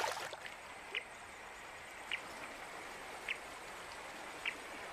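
Steady running river water, with a short rush of noise at the very start. A brief high chirp from a small animal repeats four times, a little over a second apart.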